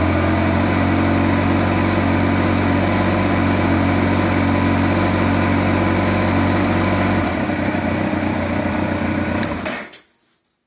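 Kawasaki ZX-14 inline-four sportbike engine running steadily. Its note changes about seven seconds in, then a click and the engine shuts off just before the end.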